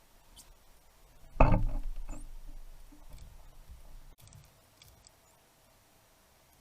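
A sudden thump about one and a half seconds in, then a couple of seconds of lower knocking and rustling that dies away.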